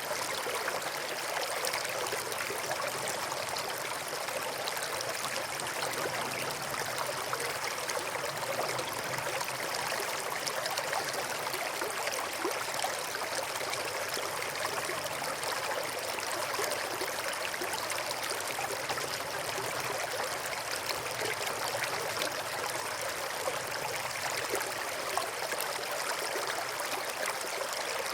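River water flowing and splashing over rocks, a steady, even rush with no pauses.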